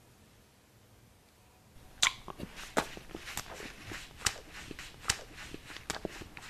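Quiet for about two seconds, then close-miked crunchy chewing: crisp, irregular crackles and clicks, several a second.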